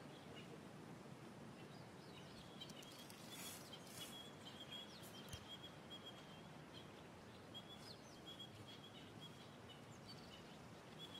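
Faint natural ambience, close to silence: a high, thin chirping repeats in quick runs at one pitch, with a few faint ticks and rustles.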